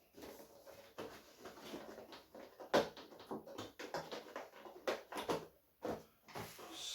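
Cardboard and plastic toy packaging being handled and pulled open: scattered rustles, taps and clicks, a few sharper ones about three and five seconds in.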